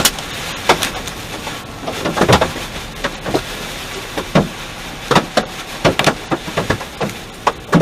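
Large hailstones striking a car's body and windshield in irregular, sharp bangs, several a second, heard from inside the car over a steady hiss.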